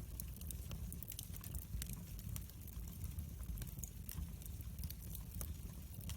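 Wood fire burning in a fireplace, with irregular sharp crackles and pops over a low steady rumble of the flames.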